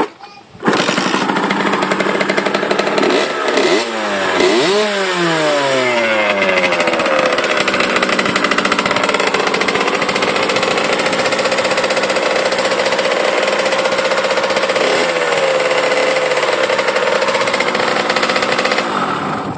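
1991 Kawasaki KX60 dirt bike's small single-cylinder two-stroke engine running loud. It comes in suddenly just under a second in, is revved up twice with the revs sliding slowly back down, then holds a steady speed with one short blip before it cuts off near the end.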